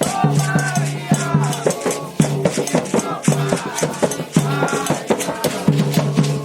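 Candomblé xirê music: atabaque hand drums beating a steady, driving rhythm with a shaken rattle over it.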